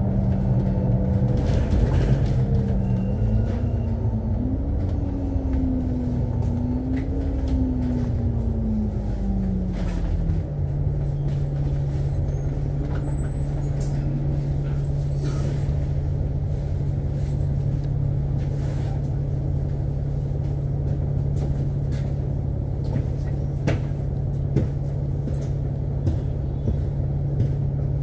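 Inside a KMB Alexander Dennis Enviro500 MMC double-decker bus, the engine and drivetrain run under way. The engine note rises and falls for the first ten seconds or so, then settles into a steady drone over road rumble.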